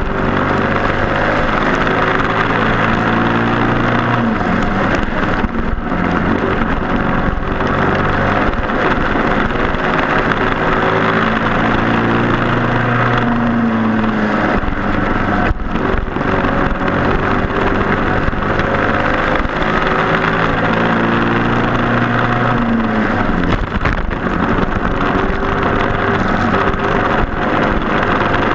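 Briggs & Stratton Animal four-stroke kart engine at race speed. Its pitch climbs steadily for several seconds, then drops sharply as the kart brakes for a corner, about three times: near four seconds in, around fourteen seconds and around twenty-three seconds.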